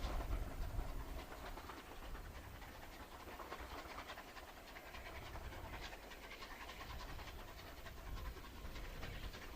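Steam locomotive working at a distance: faint, quick rhythmic exhaust beats like panting, over low wind rumble on the microphone.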